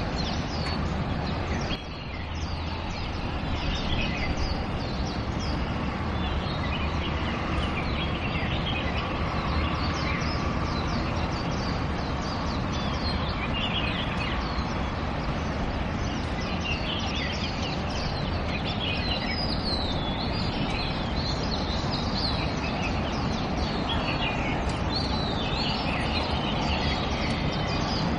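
Many short bird chirps and calls, scattered throughout, over a steady low background rumble.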